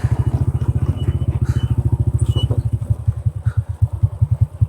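A Honda Dream motorbike's small single-cylinder four-stroke engine chugging steadily at low revs, a quick even beat, with a couple of light knocks partway through.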